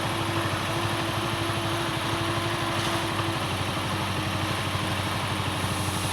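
Forestry harvester's diesel engine running steadily with an even low pulse, joined by a steady whine that stops about three seconds in.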